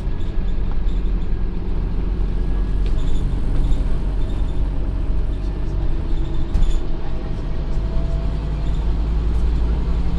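Scania OmniCity N230UD double-decker bus running steadily, its diesel engine giving a low rumble. A faint whine climbs slowly in pitch through the middle.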